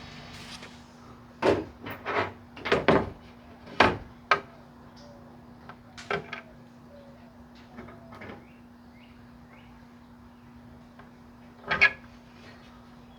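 A series of short knocks and clatters from tools and hardware being handled against a wooden skateboard deck, bunched in the first few seconds with a couple more later, over a steady low hum.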